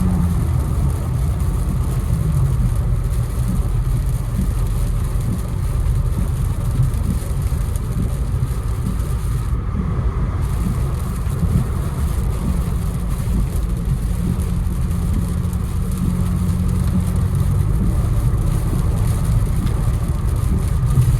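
Infiniti Q60 driving on a rain-soaked road: a steady low engine note under an even hiss of tyre and rain noise. The hiss cuts out briefly about ten seconds in.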